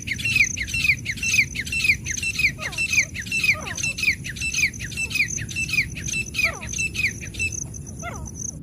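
Teetar (francolin) calls: a rapid, even series of high, downward-sliding notes, about two and a half a second, over a low hiss. The series stops near the end.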